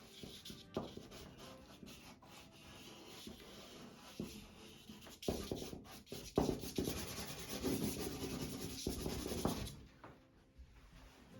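Compressed charcoal and water-soluble graphite sticks scratching and rubbing across paper in quick drawing strokes. The strokes grow louder about halfway through, then ease off near the end.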